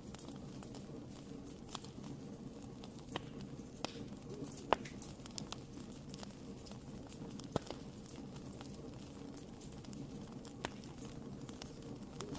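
Wood fire burning in a fireplace: a steady low rumble of flames with irregular sharp crackles and pops, two louder pops a little under halfway and past halfway through.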